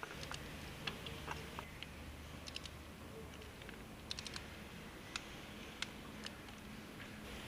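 Irregular light clicks and taps, a dozen or so scattered over several seconds, over a faint low hum.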